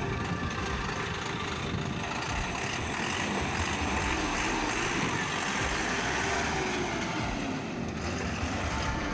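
Lovol 754 tractor's four-cylinder turbocharged Doosan diesel engine running steadily as the tractor is driven, its note shifting briefly about six to eight seconds in.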